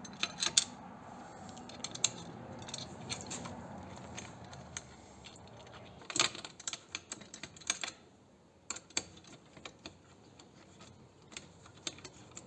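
Small metal parts being handled and fitted: irregular sharp clicks and clinks of screws, a bracket and a hand tool as the back bracket is fastened to the engine guard plate, with a cluster of louder clicks about six seconds in.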